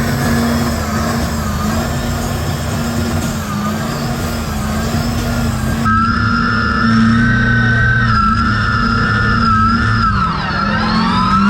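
Large truck engine held at high revs under load, with a steady high whine. Its pitch sags briefly a few times and drops sharply near the end before climbing back.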